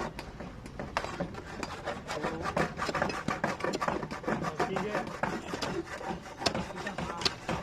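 Rapid, irregular scraping and rubbing strokes of a hand tool on a hard surface, with faint voices in the background.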